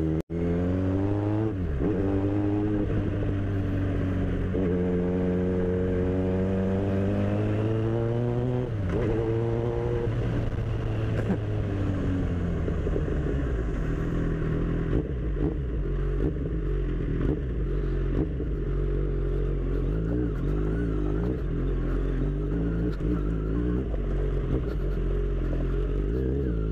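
Kawasaki Z1000 inline-four motorcycle engine under way, with wind and road noise. In the first ten seconds it revs up and drops back several times as gears change, then settles to a steadier cruise with its pitch wavering.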